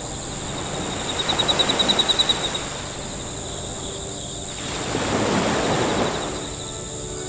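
Insects trilling steadily at a high pitch, with a fast pulsing stretch about a second in. Two swells of rushing noise rise and fall over the trilling.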